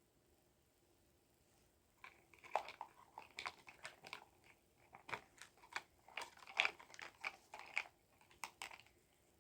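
A run of irregular clicks and rattles of small hard objects being handled, starting about two seconds in and stopping shortly before the end.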